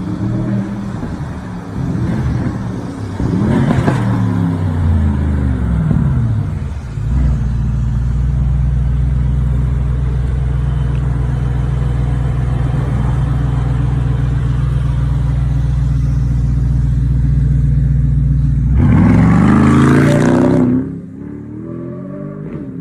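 Mercedes-AMG car's V8 engine revving, its pitch rising and falling several times. It then holds a loud, steady note for about ten seconds. Near the end it sweeps up and down once more and drops off suddenly.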